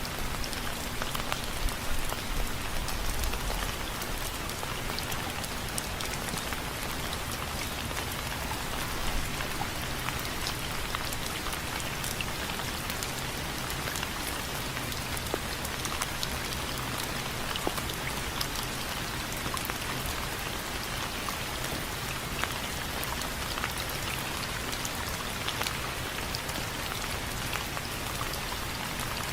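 Steady rain with many single drops tapping on a window frame. There is a brief low rumble about two seconds in.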